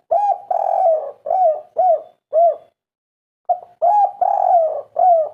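Spotted dove (derkuku/tekukur) singing its 'kuk 3' coo in two phrases. Each phrase is a short note and a longer drawn-out coo, then three short arched coos. The second phrase begins about three and a half seconds in.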